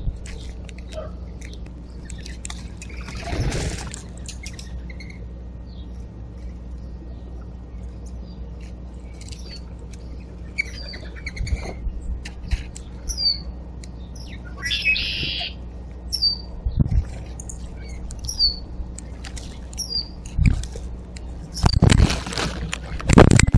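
Backyard birds calling at a feeder: a short high chirp repeats about once a second through the second half. A few brief rustles come in between, and a louder rustling scuffle starts near the end.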